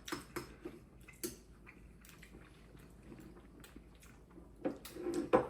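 A person chewing mouthfuls of spicy instant noodles, with scattered small clicks, and a short voice sound near the end.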